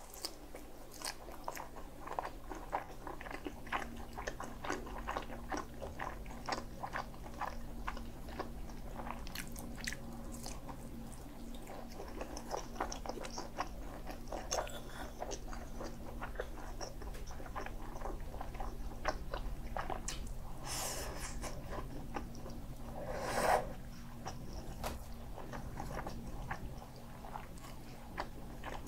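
Close-miked chewing and biting of a grilled sausage, with many small wet mouth clicks and crackles throughout, and one louder mouth sound near the end.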